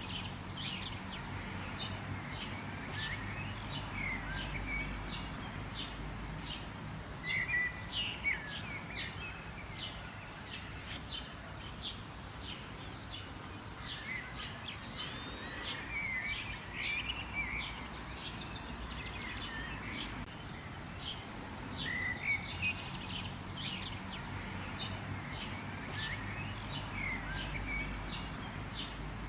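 Several small birds chirping and twittering in quick, overlapping short calls, over a steady low background rumble.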